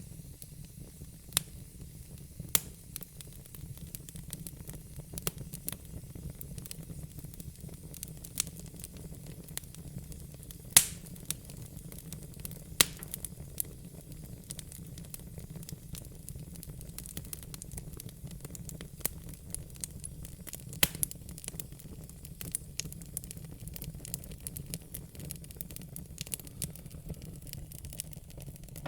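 Wood fire in a fire pit crackling: irregular sharp pops, the loudest about eleven seconds in and another near thirteen seconds, over a steady low rumble of the burning.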